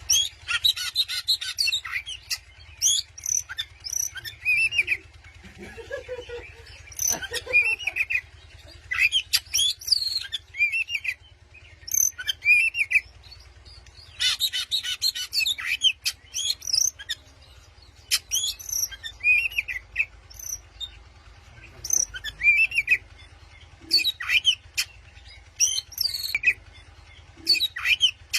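Oriental magpie-robin singing a challenging song meant to provoke rival birds: short curved whistled notes repeated every second or two, broken by bursts of fast, busy chatter.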